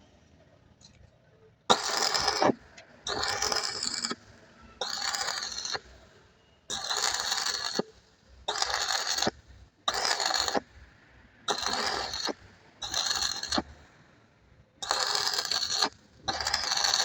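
Metal being worked by hand in rhythmic scraping strokes, about ten of them, each under a second long with a short pause between.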